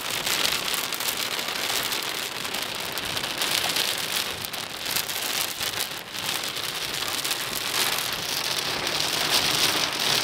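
Moderate to heavy rain falling steadily, a dense hiss of many drops.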